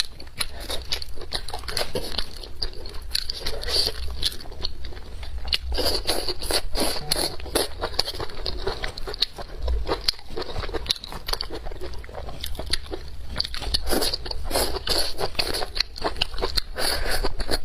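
A person chewing and biting food, a dense run of small crunches and clicks.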